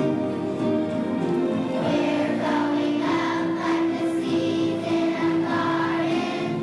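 Music: a children's choir singing held notes.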